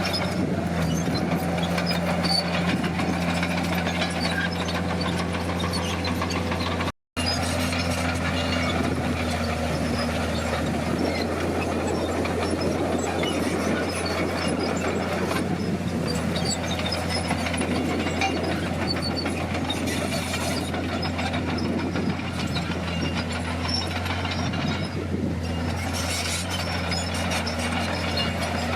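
Komatsu D50 bulldozer's diesel engine running steadily under load, with a constant mechanical clatter from the machine working. The sound cuts out for a split second about seven seconds in, then carries on unchanged.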